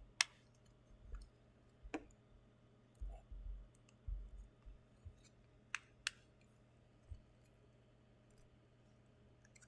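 Small plastic figurine parts being handled and fitted together: a handful of sharp clicks, the loudest right at the start and two close together just past the middle, with a few dull bumps in between.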